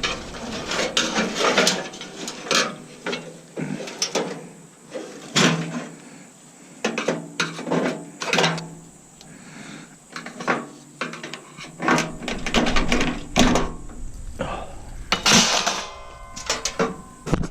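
Irregular metal clanks, knocks and scrapes of hand tools working on a stainless steel coffee maker as it is taken apart, with a louder burst of clattering near the end.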